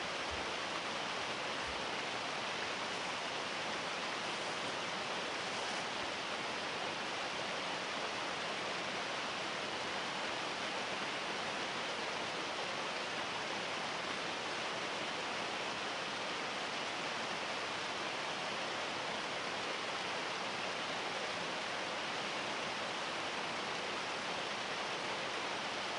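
Waterfall running: a steady, unbroken rush of falling water with no change in level.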